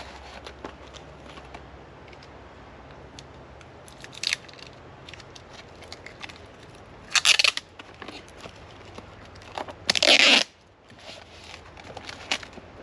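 Packaging being handled during an unboxing: a few short bursts of tearing and crinkling with small clicks between, the loudest burst about ten seconds in.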